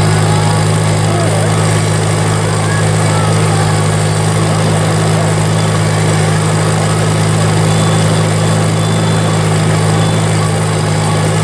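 1952 Farmall Cub's four-cylinder flathead engine idling steadily as it warms up after a cold start.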